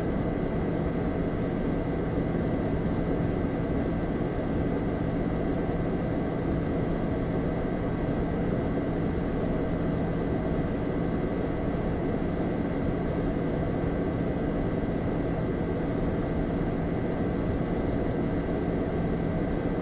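Computer humming: a steady drone of fan noise with a low electrical hum and faint higher tones, unchanging throughout.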